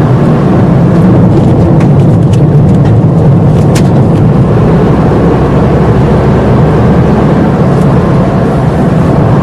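Car driving on a loose gravel road: a steady, loud rumble of tyres and engine, with a few scattered sharp ticks of gravel striking the car.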